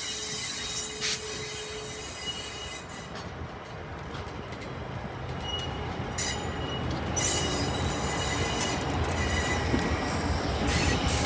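Canadian Pacific diesel locomotive and passenger cars rolling slowly by, wheels squealing on and off in high thin tones. The locomotive's diesel engine grows louder in the second half as it passes close.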